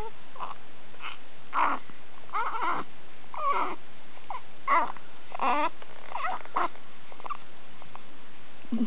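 An infant making little grunting noises: about a dozen short, squeaky vocal grunts and whimpers with wavering pitch, one after another.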